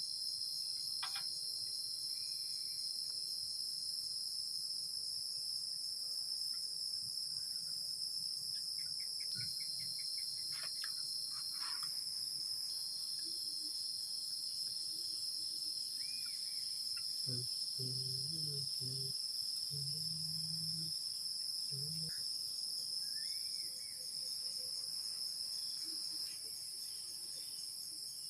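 Steady, dense chorus of calling insects, a continuous high-pitched trill in a forest at dusk, with a few faint chirps and low calls over it.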